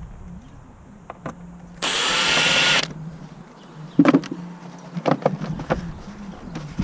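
A cordless power tool runs in a short burst of about a second, followed by scattered metallic clinks and knocks of tools and parts.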